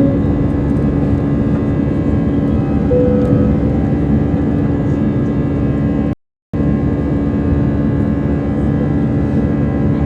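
Airbus A319 jet engines running with a steady drone and hum of held tones, cut off by a brief total gap in the sound about six seconds in.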